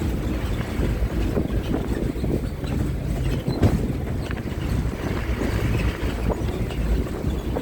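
Bus in motion: a steady low rumble with wind buffeting the microphone and irregular knocks and rattles, one louder knock about halfway through.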